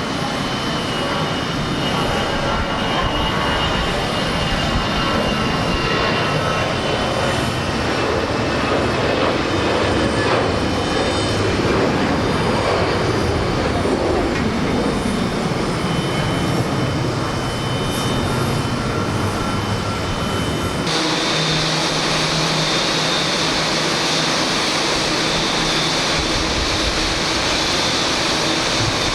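Jet airliner engines at takeoff power, a loud continuous jet noise with a high whine, its pitch sweeping as the aircraft passes. About two-thirds of the way through, the sound changes abruptly to another steady jet noise.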